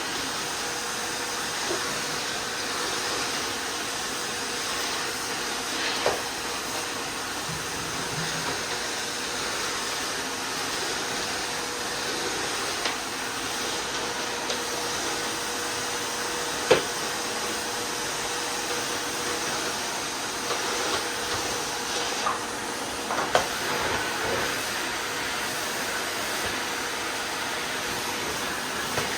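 Miele vacuum cleaner running steadily with a hissing airflow and a faint steady whine. A few short sharp knocks and clicks cut in, the loudest about two-thirds of the way through.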